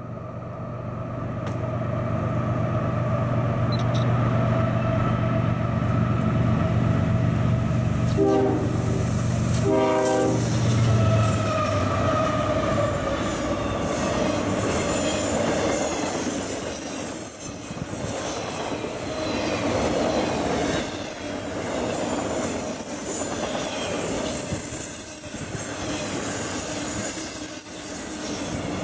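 A diesel-powered freight train approaches and passes close by. The locomotives' engine hum grows louder over the first few seconds, and the horn sounds two short blasts about eight and ten seconds in. Then the intermodal freight cars roll past with steady wheel clatter and high wheel squeal.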